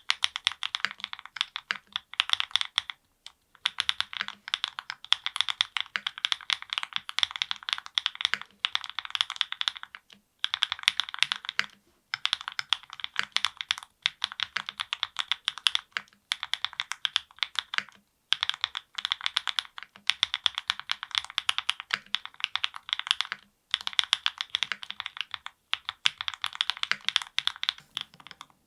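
Fast typing on a NEO70 custom mechanical keyboard with lubed Gateron Milkshake linear switches, a polycarbonate plate and full foam, under GMK keycaps. Quick runs of crisp key clacks are broken by brief pauses every couple of seconds.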